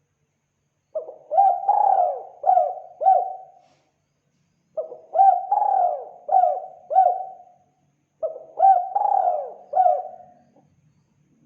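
Spotted dove cooing: three phrases of four or five quick notes that rise and fall, with a short pause between phrases.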